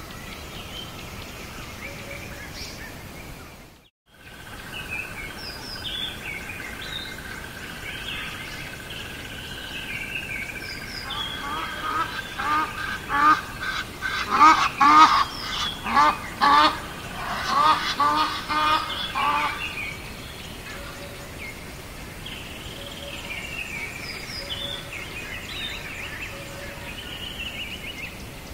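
Outdoor bird ambience with small birds chirping over a steady hiss. In the middle a larger bird gives a long run of loud repeated calls, about two a second. The ambience drops out briefly about four seconds in.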